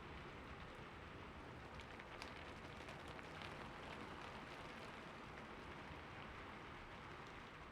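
Steady rain falling, a faint even hiss with scattered individual drops ticking through it.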